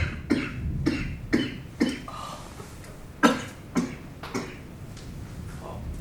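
A person coughing, a run of about eight short coughs: five close together, then a pause and three more.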